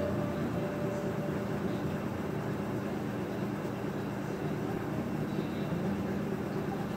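Maytag top-load agitator washing machine running with a steady mechanical hum.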